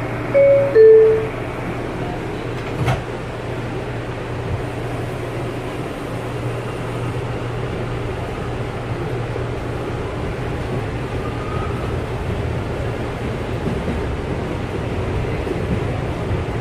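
R179 subway car's two-note door chime, falling in pitch, followed about three seconds in by a single knock as the doors shut. Then the steady running noise of the car with a low hum, growing slightly louder as the train pulls away.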